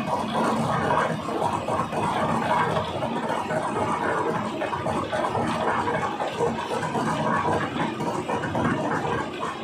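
Tractor engine running steadily with the transit mixer in operation.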